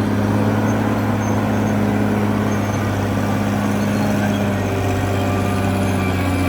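Caterpillar D6R XL bulldozer's diesel engine running steadily under work, with a slight change in pitch about two-thirds of the way in.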